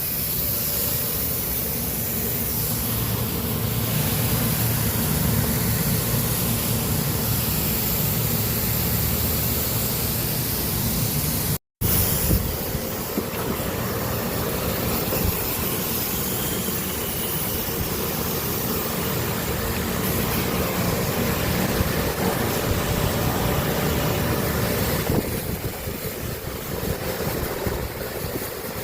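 Steady low hum of running machinery, with a brief dead gap about twelve seconds in.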